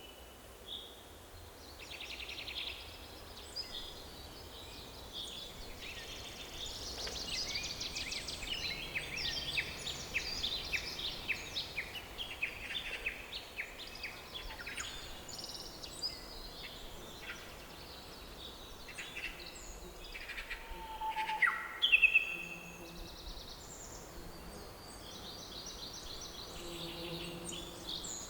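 Several songbirds singing and calling at once: a dense chorus of chirps and rapid trills, busiest in the first half, with one louder call sliding downward a little past the middle.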